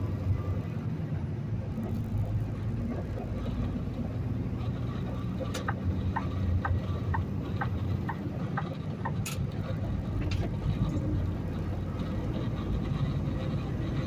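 Peterbilt semi truck running at highway speed, its steady engine and road drone heard from inside the cab. About midway comes a run of about eight evenly spaced ticks, a little over two a second.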